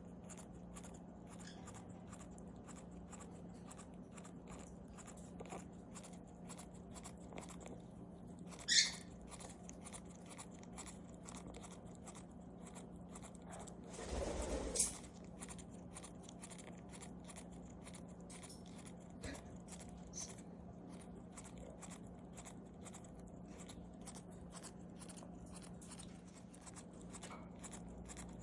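Quaker parrot grinding its beak: a fast, faint, gritty clicking of the upper and lower mandibles rubbing together, the sound this bird makes when content and settling down to sleep. A short sharp sound comes about nine seconds in, and a louder brief noise about fourteen seconds in, over a steady low hum.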